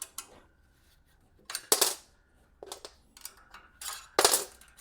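Metal nuts and bolts clinking as the nuts are taken off the bed frame's bolts: a few short, sharp metallic clinks with pauses between, the loudest near the end.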